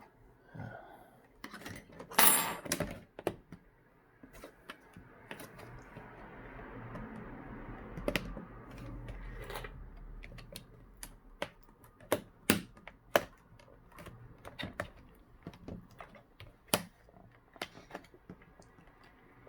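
Plastic screen bezel of an HP Chromebook 14 being pried loose by hand: scattered irregular clicks and taps of plastic, with a louder scrape about two seconds in.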